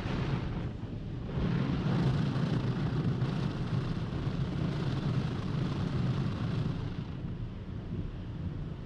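Automatic car wash in operation: a steady rush of machine and spray noise. It dips briefly about a second in and eases off near the end.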